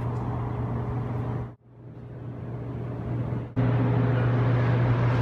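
Steady vehicle rumble with a strong low hum. It drops out abruptly about a second and a half in, comes back quieter and builds, then jumps back to full strength about three and a half seconds in.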